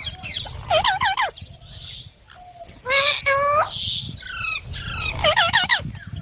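Green parrot calling in three short bouts of wavering, squawky notes, about two seconds apart.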